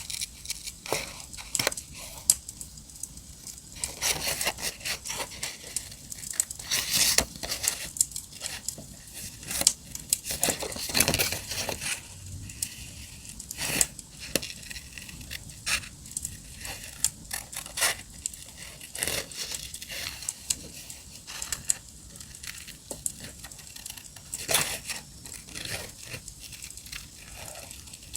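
Paper being torn and crinkled by hand in a steady stream of short, crisp rips and rustles, over the faint crackle of a campfire.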